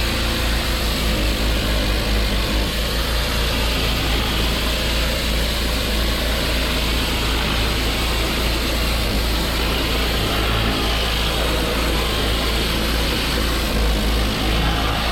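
Pressure washer running steadily under load, its engine's constant low drone mixed with the hiss of the high-pressure water spray.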